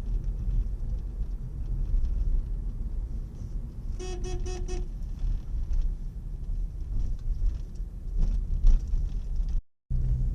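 Road rumble of a car on the move, with a car horn sounding for just under a second about four seconds in; the sound drops out briefly near the end and the rumble resumes.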